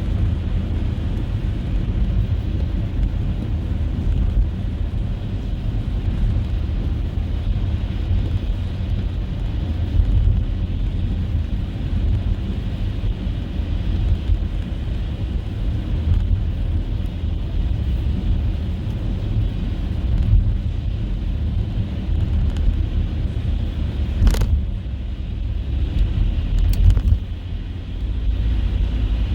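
A car driving on a snow-covered road, giving a steady low rumble of engine and tyres. There is a sharp click about three-quarters of the way through and a few fainter clicks shortly after.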